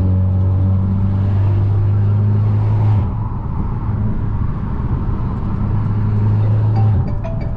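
A turbocharged Mercedes-Benz C250 driving, with a steady low engine drone. The drone drops away about three seconds in, returns about a second later, and drops away again near the end.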